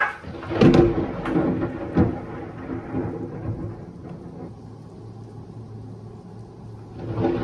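Close thunder: a sudden crack followed by several sharp crackling strikes that roll into a rumble and fade over a few seconds, over steady rain. A new thunderclap breaks near the end.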